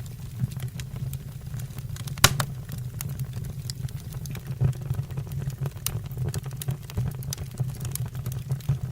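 Wood fire in a fireplace crackling, with scattered irregular pops and one loud snap a little over two seconds in, over a steady low rumble.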